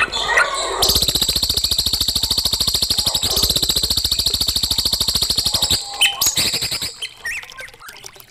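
Songbird singing a fast, evenly repeating trill for about five seconds, followed by a few short call notes.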